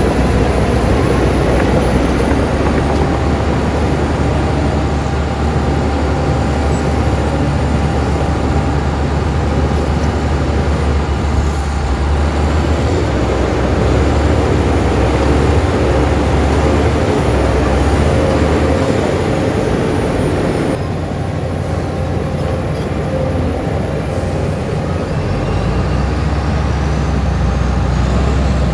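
Heavy diesel earthmoving machinery running steadily under load, the sound dropping a little about three quarters of the way through.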